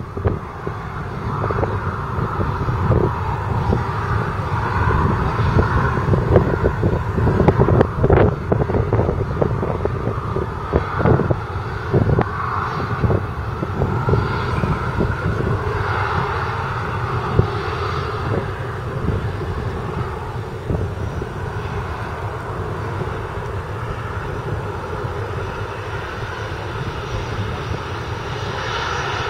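Jet engines of a Ryanair Boeing 737-800, its CFM56-7B turbofans running with a steady rumble and whine, with wind buffeting the microphone.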